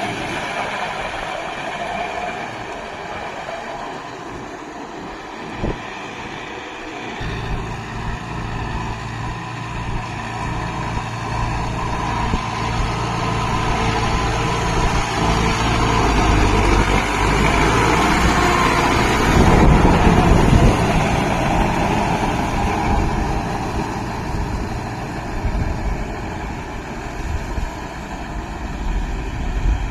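Kubota MU5502 4WD tractor's diesel engine running, its low hum coming in strongly about seven seconds in. It grows louder to a peak about two-thirds of the way through, then fades again.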